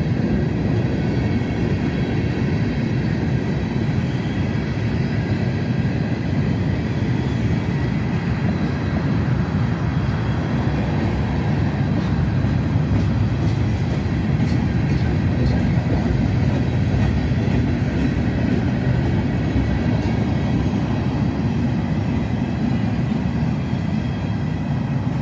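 Freight train cars rolling past, a steady low rumble of steel wheels on rail with light clicking around the middle.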